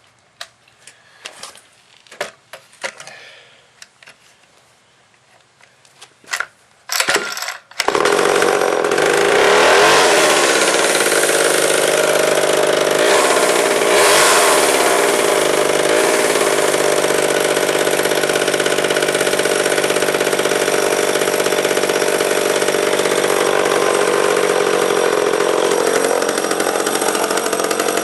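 Vintage Dayton 2Z461 two-stroke chainsaw: some knocks from handling, then two quick starter pulls. It catches about eight seconds in and runs loud and steady, revving briefly a couple of times.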